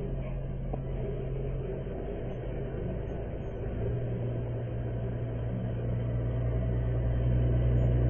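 Vehicle engine drone: a steady low hum that grows louder over the second half.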